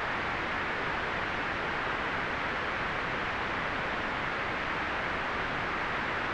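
Steady white noise: an even, unchanging hiss, strongest in the upper middle range and softer in the highs.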